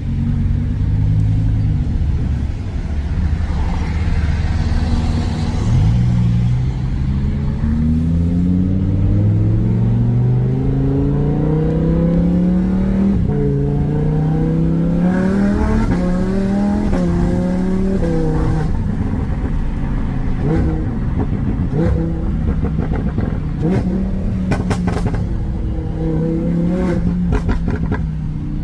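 Lamborghini Huracán V10 engine through a custom titanium aftermarket exhaust, revving: the pitch climbs several times and drops back, then a run of short blips with sharp cracks from the exhaust near the end.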